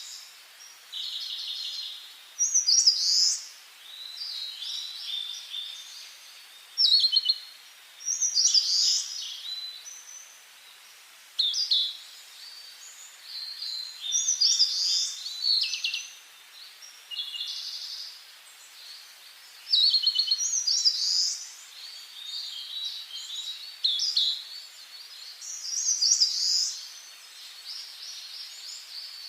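Songbirds singing in forest, high, quick song phrases following one another, one bird repeating a similar phrase about every six seconds, over a faint steady hiss.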